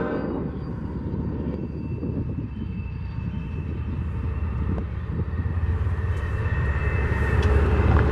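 Train passing close by: a low rumble that grows louder toward the end.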